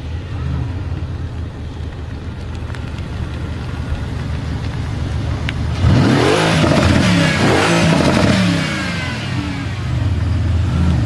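Mercedes-AMG GT S twin-turbo V8 with an ASG exhaust running steadily, then revved hard about six seconds in, its pitch rising and falling for a couple of seconds before dropping back. It rises again near the end.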